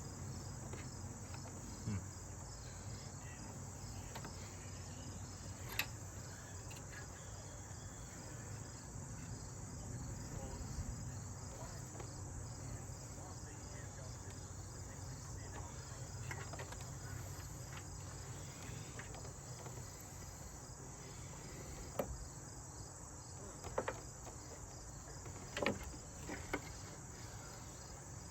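A steady high-pitched insect chorus chirring in the background, with a handful of short sharp clicks and taps as wire terminals are handled during the hard start kit hookup.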